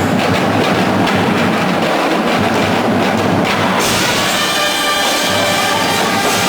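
Marching band playing, with drums and percussion driving the rhythm. About four seconds in, the full band comes in with held, pitched chords.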